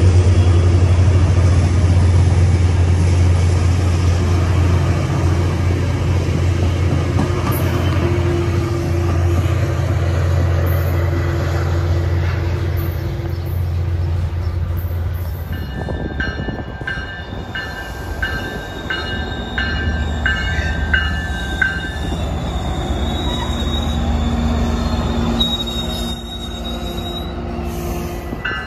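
Tri-Rail commuter train running past a station platform: the diesel locomotive's loud steady low drone with the rumble of the bilevel coaches. About halfway through it gives way to a quieter stretch as another train approaches, with repeated high-pitched tones and squeal from the rails.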